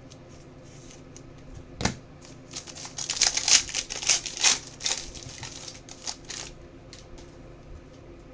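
Trading cards and their packaging being handled: a sharp snap about two seconds in, then a run of crinkly clicks and rustles for about four seconds.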